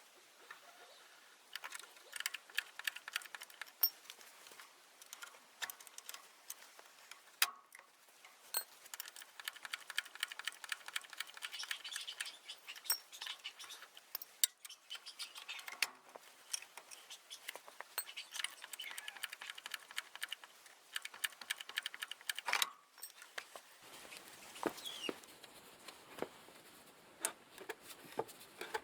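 Electric arc welding crackling with many sharp clicks, in three long runs with short breaks between them, then scattered clicks near the end.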